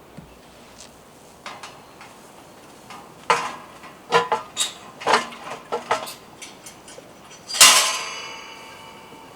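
Metal cookware and utensils clinking and knocking several times, then one loud metallic clang near the end that rings on and fades out.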